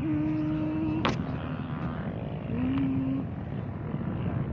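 ATV engine running at steady revs, easing off briefly twice, with one sharp click about a second in.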